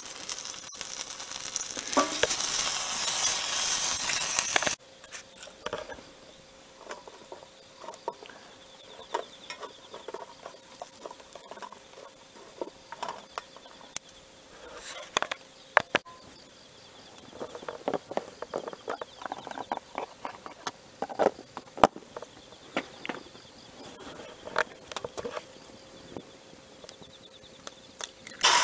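Crinkle-cut fries frying in fat in a mess-kit pan over a wood fire. A loud sizzling hiss cuts off abruptly about five seconds in, followed by quieter scattered pops and crackles of the frying and the fire.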